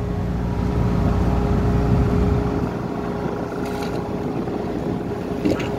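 Ship's engine machinery running steadily: a low rumble with a constant hum.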